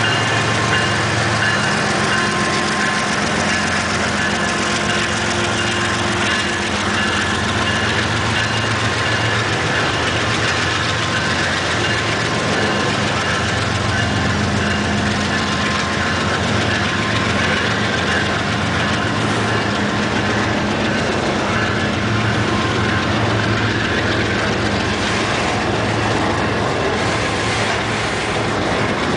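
Freight train of autorack cars rolling past close by: a steady noise of steel wheels on rail.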